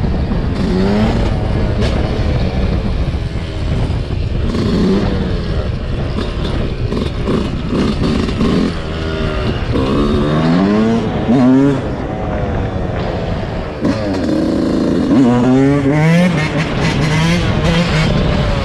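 Dirt bike engine revving up and down again and again, its pitch rising and falling with each blip of the throttle.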